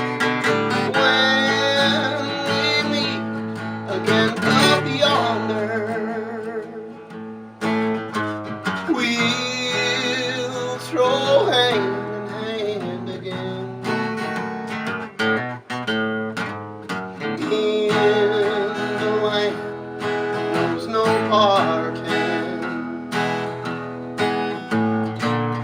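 Acoustic guitar playing a slow country ballad, strummed chords under a picked melody line, with some notes wavering in pitch.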